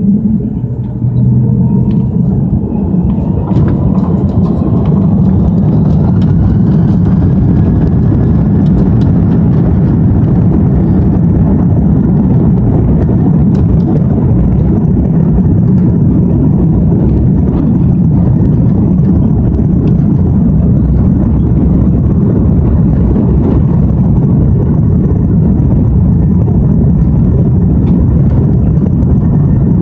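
Airbus A330-223's Pratt & Whitney PW4000 engines spooling up to takeoff thrust, heard from inside the cabin: a whine rises in pitch over the first several seconds, then a loud, steady rumble of the takeoff roll.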